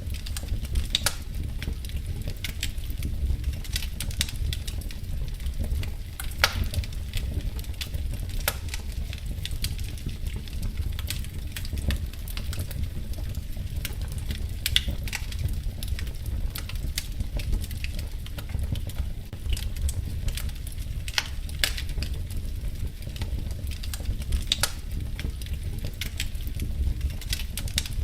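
Wood fire burning in a fireplace: a steady low rumble with irregular crackles and sharp pops.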